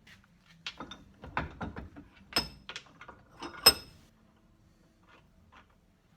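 Tools and parts being handled and set down on a workbench: a string of irregular knocks and clicks with two sharper, ringing metallic clanks, the last about three and a half seconds in.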